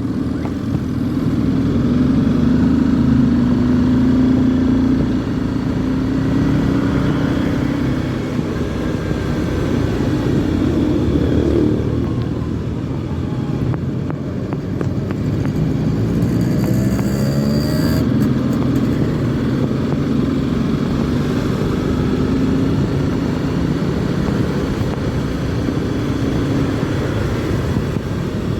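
Honda CBR250R's single-cylinder engine running under way, its pitch rising and falling as the rider accelerates and eases off, over a steady rush of wind and road noise. A brief high whine sounds about two-thirds of the way through.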